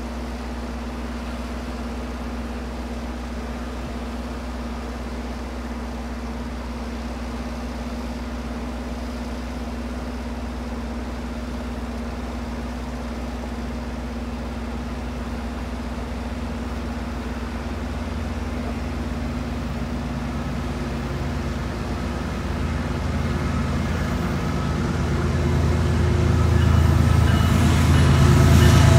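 Diesel train approaching: a steady low engine hum that grows louder through the second half, with rail noise building near the end.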